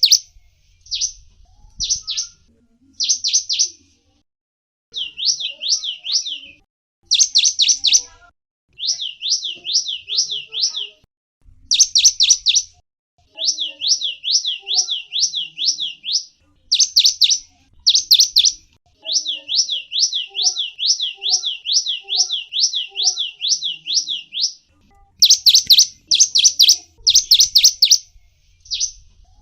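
Zebra finch (gelatik wingko) calling: short, high chirps repeated in quick strings of up to a dozen or more notes, about six a second, broken by brief pauses.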